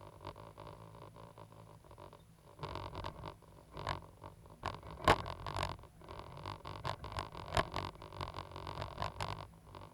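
Cat 320GC excavator running at a steady hum, with irregular knocks, clatter and scraping from the machine at work starting a few seconds in; the sharpest knocks come about five seconds in and again about two and a half seconds later.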